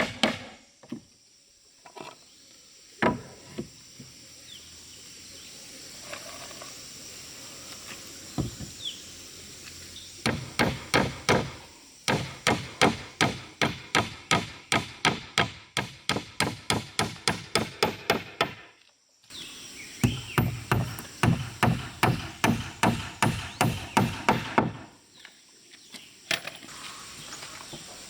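Hammer striking wood in quick, even runs of about three blows a second, with a few single strikes near the start.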